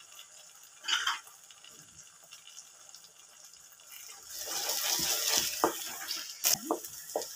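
Onion-cashew masala paste sizzling in butter in a pan, with a wooden spatula stirring and scraping through it from about four seconds in, and a sharp knock of the spatula against the pan near the end.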